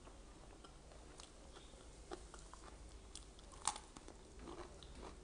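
Faint mouth sounds of a person chewing raw vegetables, with scattered small crisp crunches and one sharper crunch about two-thirds of the way in.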